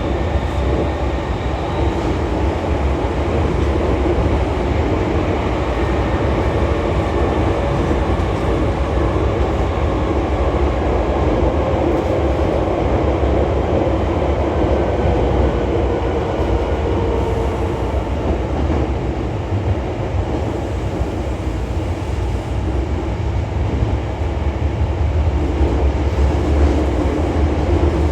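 Hankyu 3300 series electric train running through the Sakaisuji Line subway tunnel: a steady rumble of wheels and running gear with faint whining tones. It grows somewhat louder near the end.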